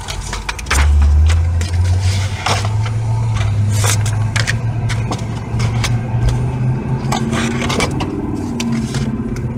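A motor vehicle's engine running close by, heard from inside a car cabin: a low drone that starts suddenly about a second in and creeps slightly up in pitch, fading near the end, over scattered clicks and scraping.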